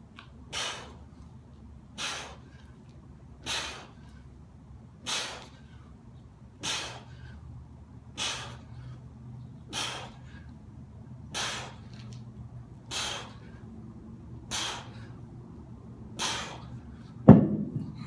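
A man breathing hard during exercise: a forceful breath out about every one and a half seconds in a steady rhythm. A single loud thud comes near the end.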